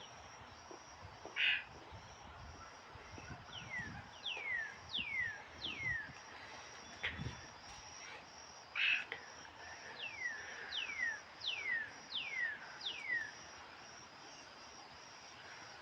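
A bird calling: two runs of four or five quick whistles, each sliding down in pitch, and two short harsh notes, one near the start and one about halfway. Under it a cricket-like insect keeps up a steady, evenly pulsed high chirping.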